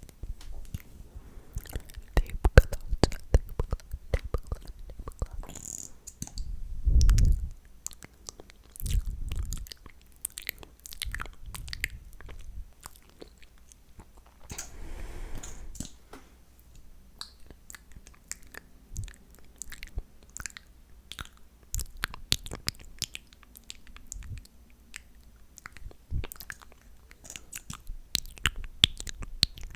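Close-miked wet, sticky mouth sounds: rapid, irregular clicks and smacks of lips and tongue, like chewing. Two low thumps come about a quarter of the way in, and there is a short breathy stretch about halfway.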